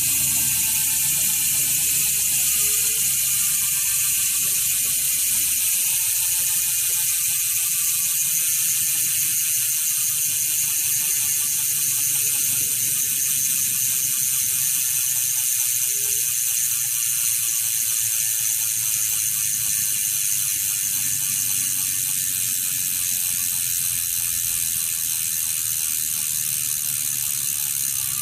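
Novatec D812SB rear hub freewheeling, its pawls clicking so fast they merge into a steady buzz, the "gentle bee sound". The pitch falls slowly as the wheel winds down.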